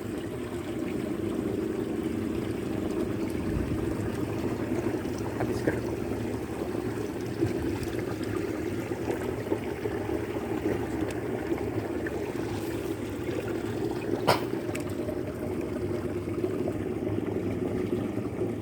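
Steady rush of moving water at high tide, with one sharp click a little past the middle.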